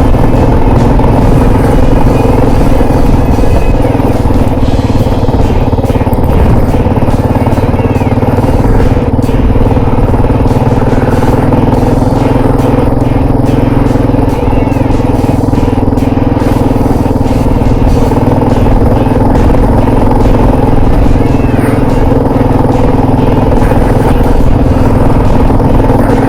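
Motorcycle engine running at a steady speed while riding, with a constant low rumble of wind and road noise.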